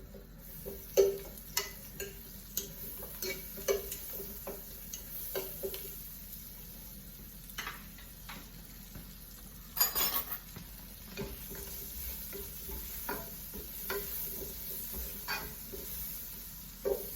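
Butter sizzling as it melts in a hot frying pan, a steady high hiss, with a utensil knocking and scraping against the pan every second or so and a louder clatter of knocks about ten seconds in.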